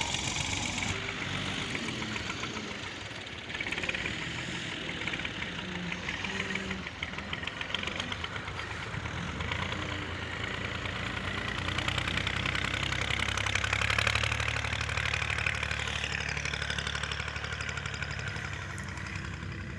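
Tractor diesel engines running steadily while levelling ground. About twelve seconds in, the engine note deepens and grows louder.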